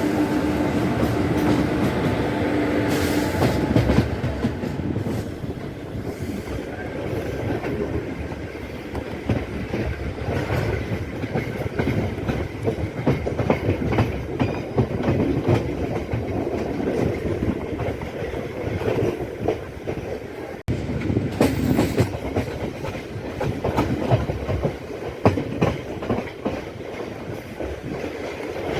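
MEMU electric local train running, its wheels clattering over the rail joints, with a short drop-out about two-thirds of the way through.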